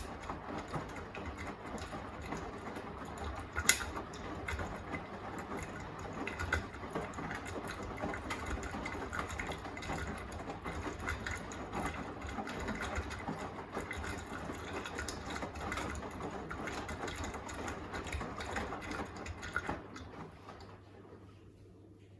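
Beko WTK104121A washing machine tumbling its load in the wash phase: the motor turns the drum with a steady hum, and the wet laundry swishes and clicks inside. There is a single sharp knock about four seconds in. The sound fades near the end as the drum slows to a pause.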